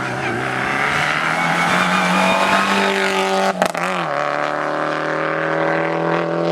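Rally car engine running hard at high revs, its note holding mostly steady. There is a brief break and dip in pitch about halfway through.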